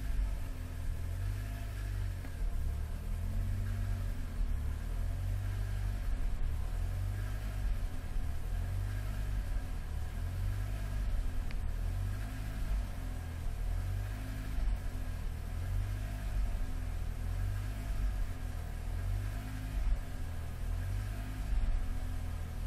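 Alfa Romeo 156 on the move, heard from inside the cabin: a steady low engine and road rumble, with the engine note rising briefly a few seconds in.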